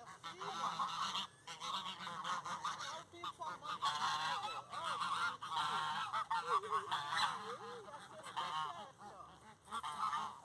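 Several birds calling over and over in short, wavering calls, like a flock of farmyard fowl. The calls thin out near the end.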